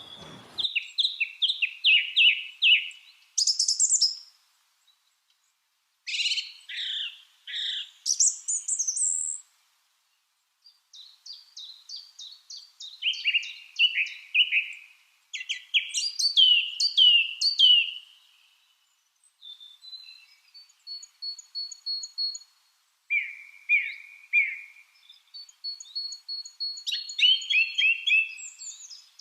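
Lovebirds chirping in quick runs of short, repeated high notes, with brief pauses between the runs and a thin, higher whistled trill near the end.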